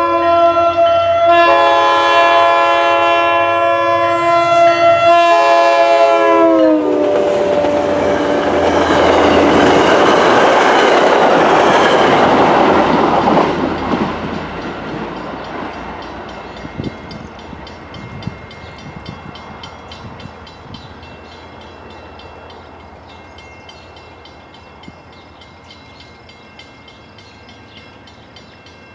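Commuter train's multi-tone air horn sounding in long blasts as it approaches, the chord dropping in pitch as the train passes about seven seconds in. The loud rush of the train going by follows, then fades away with scattered wheel clicks over the rail joints.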